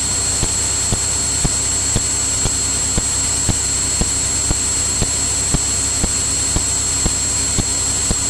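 Steady cabin drone of a single-engine Cirrus piston airplane in cruise, as picked up through the cockpit audio feed, with a thin high-pitched whine and sharp ticks about twice a second.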